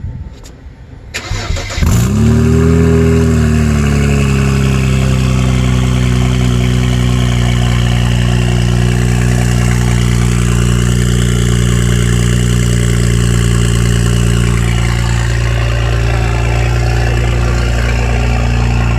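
Car engine being started: it cranks briefly, catches about two seconds in with a short rev flare, then settles into a steady idle.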